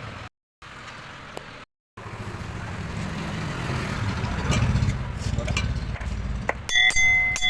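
Metal parts of a ceiling fan motor being worked apart by hand: a rough, rumbling scrape builds over a few seconds. Near the end come sharp metallic clinks with a short ringing.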